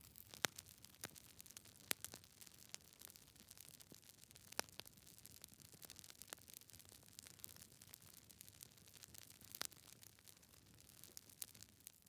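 Logs burning in a fireplace, crackling: irregular sharp pops, a few of them louder, over a faint hiss.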